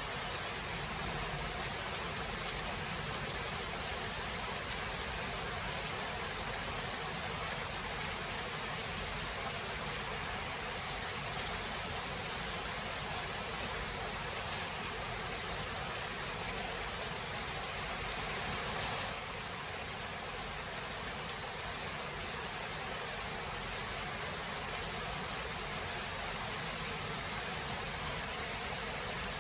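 Steady rain falling, a dense even hiss with no distinct thunderclap, dropping slightly in level about two-thirds of the way through.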